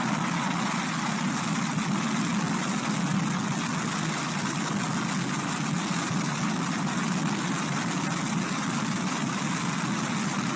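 F-16 fighter jet's engine running on the ground at full afterburner: a loud, steady rushing noise with a strong low rumble underneath.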